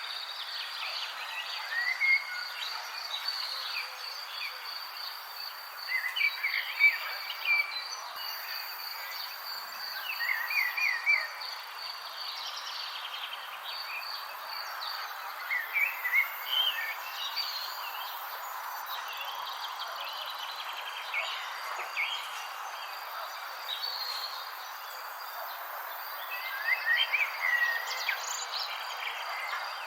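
Outdoor nature ambience: a steady, high pulsing insect trill, with small birds chirping in short, scattered bursts over it.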